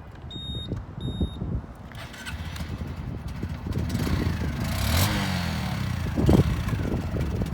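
Two short electronic beeps, then a Honda Super Cub 125's small air-cooled single-cylinder engine running, with the revs rising around the middle.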